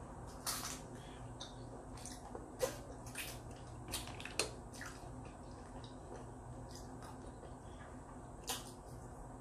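Close-miked wet chewing of a rubbery clam, with scattered lip smacks and mouth clicks, the sharpest about two and a half and four and a half seconds in and one more near the end as fingers are licked.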